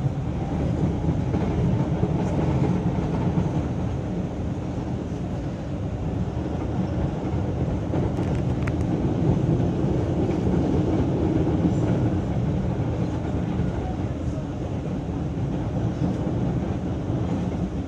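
Steady rumble of an MRT-3 light-rail train running along its line, heard from inside the moving car, swelling and easing a little in loudness.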